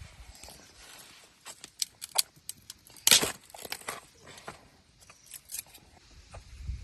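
Scattered clicks, knocks and rustling of objects being handled, with one louder scrape or knock about three seconds in.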